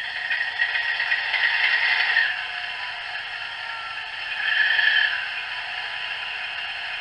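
Howes DCC sound decoder in a model Kestrel locomotive playing a diesel engine start-up through a small 23 mm speaker: thin and rattly with no bass, with a bit of hiss. The engine sound builds over the first two seconds, swells again about five seconds in, then settles to a steady idle.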